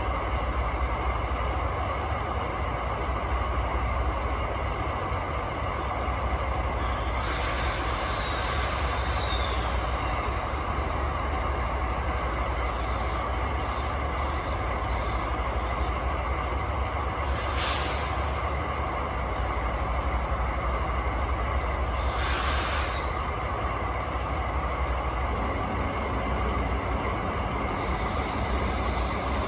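DD51 diesel locomotive's two V12 engines idling with a steady low drone while the air brakes are tested. About seven seconds in, compressed air starts to hiss, with a short falling whistle. Two sharper blasts of air follow, about ten and fifteen seconds later.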